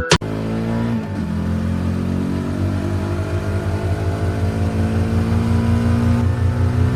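Motor vehicle engine running under steady acceleration, its pitch slowly rising over several seconds with a fast, even pulsing underneath.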